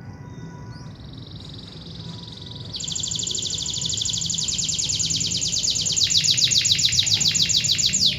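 Canary singing one long, rapid trill. It begins as a softer high trill, turns into a loud, fast rolling trill about three seconds in, spreads lower in pitch over the last two seconds, and stops abruptly.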